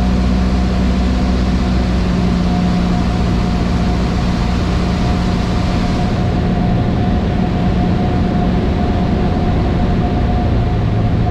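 Cessna 152's four-cylinder Lycoming engine and propeller droning steadily, heard inside the cockpit, with a slight shift in the engine note near the end.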